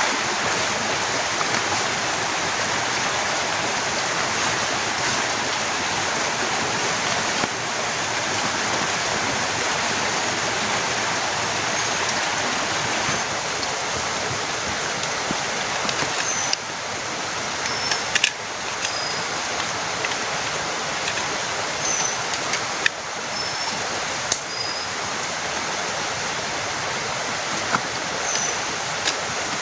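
Heavy rain falling steadily in a dense, even hiss. From about halfway on, a few sharp taps and some short high chirps sound over it.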